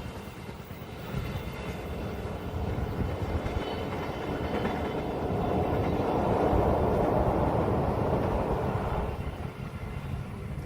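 A train passing close by: a steady rumble and rush that builds, is loudest from about six to nine seconds in, then drops away.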